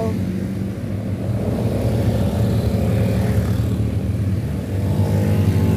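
Motorcycle engine running steadily at a low, even pitch while climbing a steep mountain road under load.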